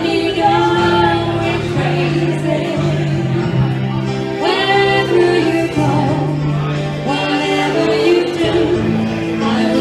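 A vocal duo singing a slow ballad over instrumental accompaniment, with long held, wavering notes.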